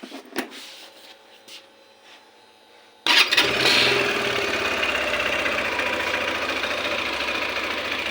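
A few light clicks, then about three seconds in the Daytona Dymoto 125X's 125 cc water-cooled engine starts at once and settles into a steady idle.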